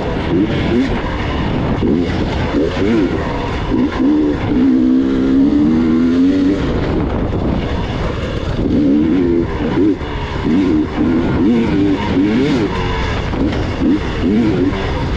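Gas Gas EX 300 two-stroke enduro motorcycle engine ridden fast, its revs rising and falling over and over as the rider works the throttle. The revs are held steady for a couple of seconds midway. A constant rush of noise runs underneath.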